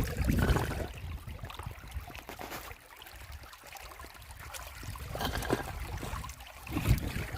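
Flowing river water splashing and sloshing in uneven surges, over a low rumble on the microphone; loudest near the start and again near the end.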